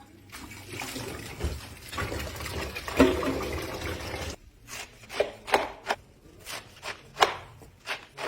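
Water running for about four seconds, then a string of sharp knocks, roughly one or two a second.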